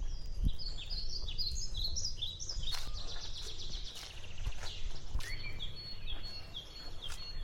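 Birds singing: many short, quick chirping notes repeated in series, with a thin steady whistle held from about the middle on. A few sharp clicks and a low background rumble lie underneath.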